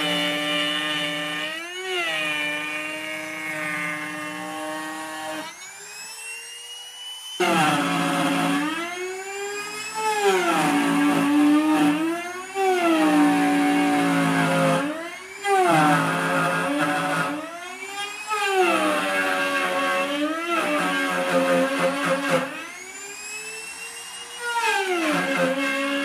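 Small electric power tool motor whining at high speed, its pitch sagging and recovering every two to three seconds as it is pressed into the work. About six seconds in it eases off and then spins back up.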